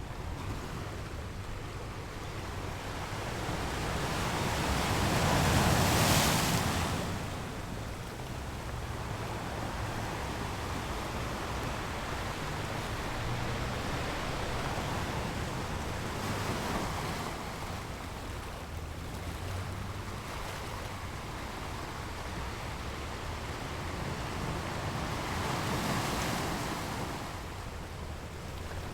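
North Sea surf breaking on a sandy beach: a steady wash, with one loud wave crashing about six seconds in and smaller waves breaking around the middle and near the end.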